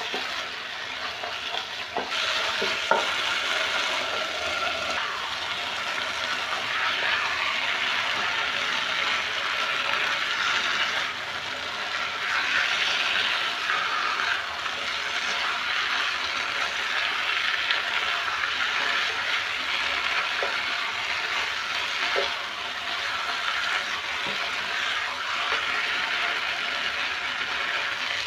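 Beef and matoke sizzling in hot oil and sauce in a nonstick pot while a spatula stirs and turns them, a steady frying hiss with a few light knocks of the spatula against the pot.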